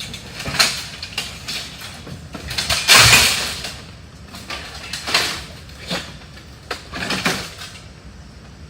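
Irregular knocks and clattering of junk and debris being handled and tossed, with the loudest, longest crash about three seconds in.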